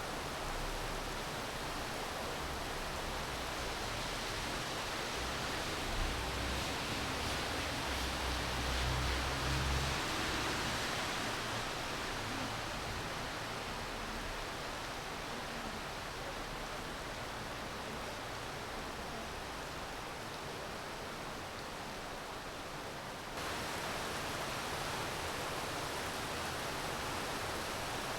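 Steady rain falling, an even hiss with no distinct drops. A low rumble swells and fades about a quarter of the way in, and near the end the level jumps slightly and abruptly, like a splice in the recording.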